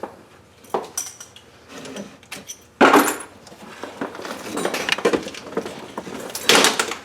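Metal hand tools clinking and rattling as they are handled and sorted, with two louder clanks, one about three seconds in and one near the end.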